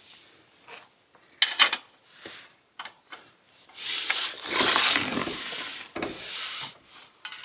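Metal exhaust parts and hardware being handled during an exhaust install: irregular scraping and rubbing with a few sharp clinks, the longest and loudest scrape about four seconds in.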